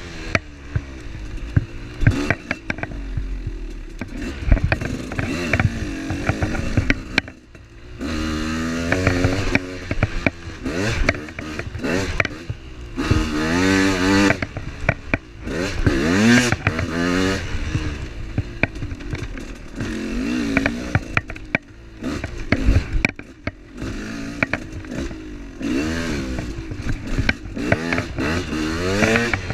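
Off-road vehicle engine revving up and down over and over as it is driven along a rough dirt trail, with frequent rattles and knocks from the vehicle over the ground. The engine eases off briefly about seven seconds in.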